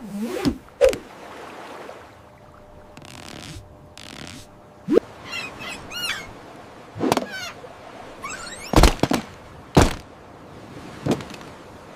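Birds chirping over a faint steady wash, with a few sharp thunks in the second half, three of them about a second apart.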